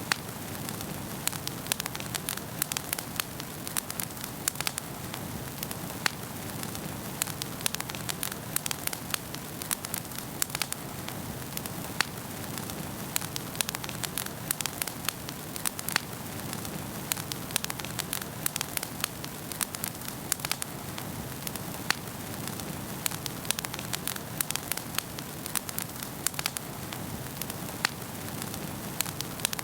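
Wood fire crackling in a fireplace: a steady low hiss of burning with frequent sharp pops and snaps scattered irregularly throughout.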